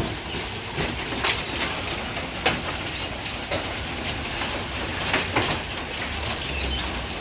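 Hail coming down steadily: a dense hiss of hailstones striking the ground and surfaces, with scattered sharper clicks of single stones hitting now and then.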